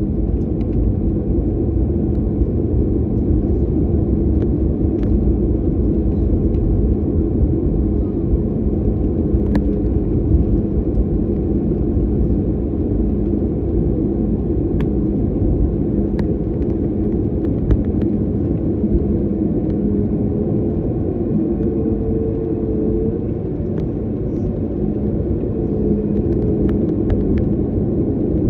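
Steady low rumble of a jet airliner heard from inside the passenger cabin, with a constant hum and a few faint clicks.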